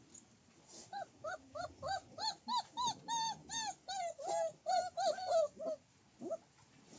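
A dog whining in a quick run of short, high cries, about three a second, that stop about six seconds in.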